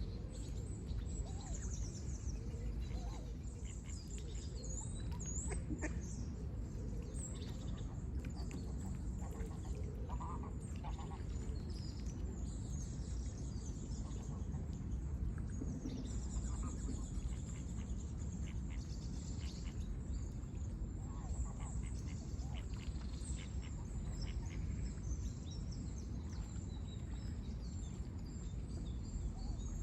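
Outdoor bird chorus: many small birds chirping and twittering, with a few lower calls now and then, over a steady low rumble.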